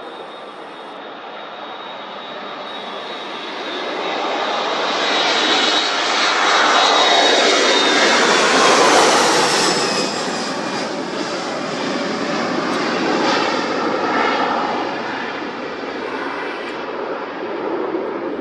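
Jet airliner taking off: the engines at takeoff power build to a peak about eight seconds in as it passes, their whine sliding down in pitch, then the sound fades to a rumble as it moves away.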